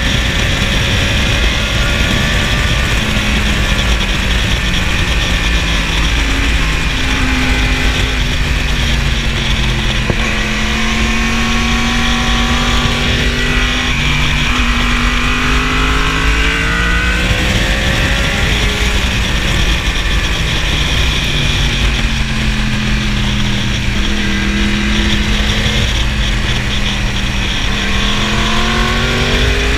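2015 Yamaha R1's crossplane inline-four engine heard from on the bike, its revs falling and rising again several times through a run of bends, under steady wind rush.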